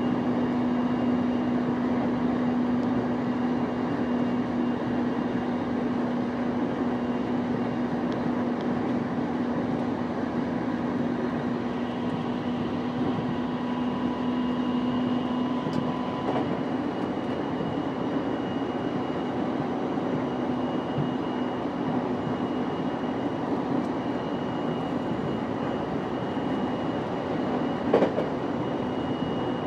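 Onboard running sound of a JR East E233 series 5000 electric train cruising at speed: a steady rumble of wheels on rail with a steady electric hum that fades about halfway through. One short knock near the end.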